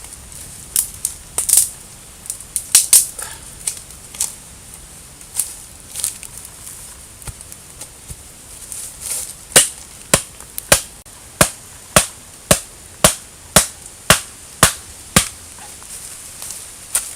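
Chopping with a blade, sharp strikes: scattered and uneven at first, then a steady run of about two strokes a second for several seconds near the middle.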